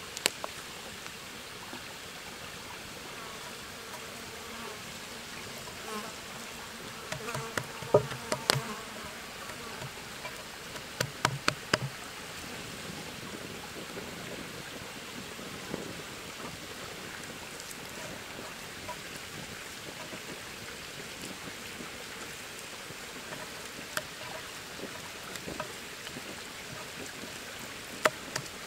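Insects buzzing over a steady outdoor hiss, broken by scattered sharp clicks and knocks, bunched around eight seconds in and again around eleven to twelve seconds.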